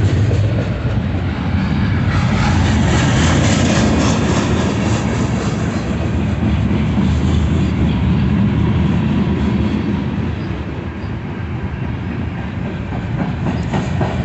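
Freight cars of a slow-moving Union Pacific train rolling past: a steady low rumble of steel wheels on rail, with sharp clacks of wheels over the rail joints near the end.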